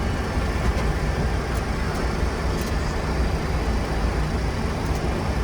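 Steady rumble and hiss of a Boeing 747SP's cockpit with its engines running before takeoff.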